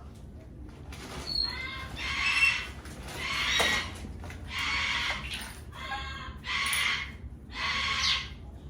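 Pet parrot squawking over and over, about seven loud calls in a row with short gaps between them.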